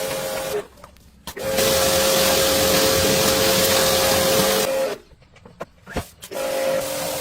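A motor-driven machine running with a steady whine and hiss. It cuts off twice for about a second each time and starts again, and runs loudest between the two stops.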